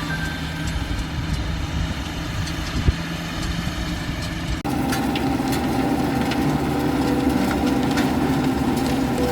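Tractor engine running steadily at low revs. About halfway through, the sound changes abruptly to a louder, closer engine note. There is a single sharp knock about three seconds in.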